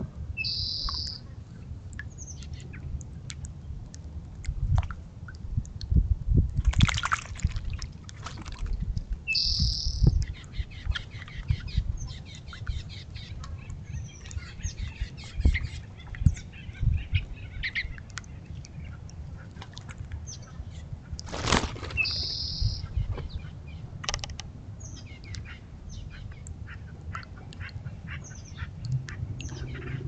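Small birds at a bird bath: bursts of wing flapping and soft knocks as they land and flit about, with scattered short chirps and a brief high call heard three times, roughly ten seconds apart.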